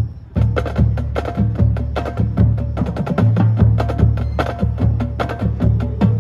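High school marching band playing a percussion-heavy passage: after a few isolated drum hits, the full ensemble comes in about half a second in with rapid, sharp percussion strikes over low held notes.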